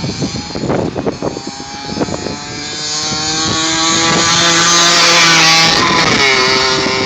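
Suzuki RM50's small two-stroke single-cylinder engine running irregular and crackly for the first two seconds, then pulling with a steady climb in pitch. About six seconds in the pitch drops sharply and settles lower.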